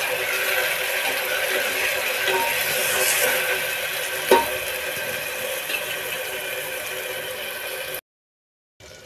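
Onion, garlic and ginger paste sizzling in hot oil in an aluminium pressure cooker, being fried until the oil separates, while a spatula stirs and scrapes the pot. A single sharp knock of the spatula on the pot about four seconds in; the sound cuts off abruptly near the end.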